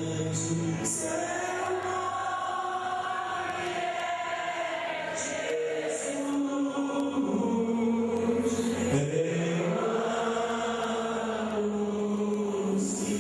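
Slow sung worship music: a group of voices holding long notes that glide slowly from one pitch to the next.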